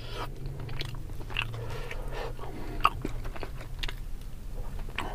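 A person biting and chewing pieces of spicy tilapia eaten by hand, with small wet mouth clicks and smacks scattered through.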